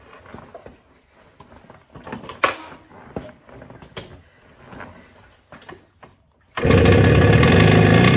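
1975 Yamaha RD350's two-stroke parallel-twin engine cold-started on choke: a few light clicks and knocks, then about six and a half seconds in the engine catches on the first attempt and runs steadily.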